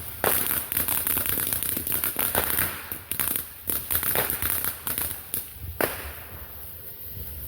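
Fireworks going off as a rapid string of sharp pops and crackles, with several louder cracks among them, dying away over the last second or so.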